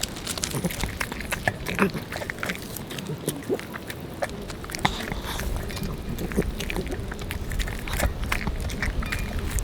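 A dog eating boiled chicken: irregular short clicks and smacks of chewing.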